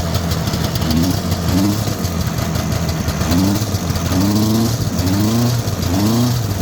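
A 1971 Ski-Doo Olympic snowmobile's two-stroke engine running on its freshly cleaned carburetor. A steady low engine note carries under short rising pitch sweeps that come about once a second, like quick throttle blips.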